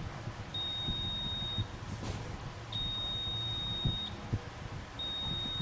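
Multimeter continuity buzzer giving three long, steady, high-pitched beeps as test probes touch points on the phone's circuit board, the last one starting near the end. Faint taps of the probes are heard between the beeps.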